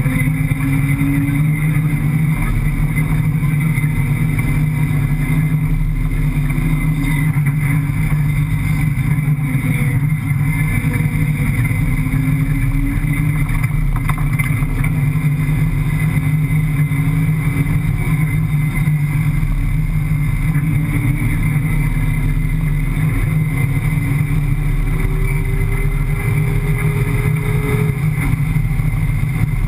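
Rally car's 5.7-litre Hemi V8 engine running steadily under load, heard from inside the cockpit as a loud, continuous drone whose pitch drifts gently up and down, rising briefly near the end.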